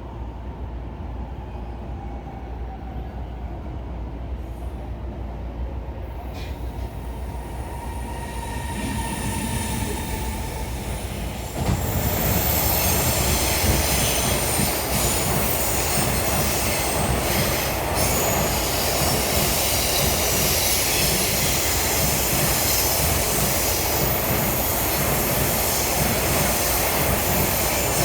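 Electric commuter train running and gathering speed, with faint rising motor whine early on. About twelve seconds in, the wheel and rail noise suddenly grows much louder and stays loud, with high squealing from the wheels on the rails.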